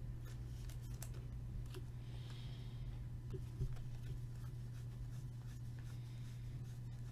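2015-16 Upper Deck Champs hockey cards being handled and flipped through: soft paper slides and light clicks, over a steady low hum.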